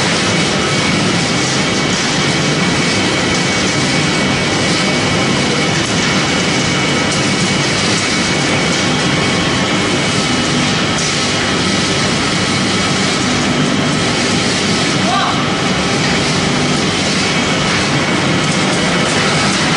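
Pellet-making machine for corn stalk and sawdust running continuously with a loud, steady mechanical noise and a few faint steady whining tones.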